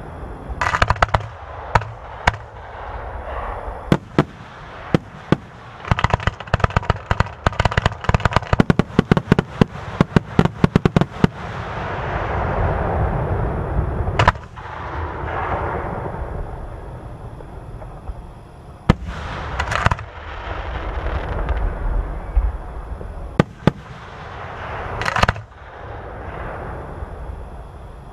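Aerial fireworks display: sharp shell bursts and bangs with rumbling echoes. A dense rapid run of crackling reports comes between about six and eleven seconds in, followed by long crackling fizz and further loud bangs near the end.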